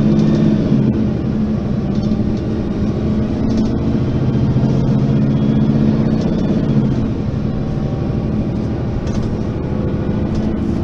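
Diesel engine of a Mercedes-Benz Citaro facelift city bus running steadily. Its tone eases off for a couple of seconds after the middle and picks up again near the end.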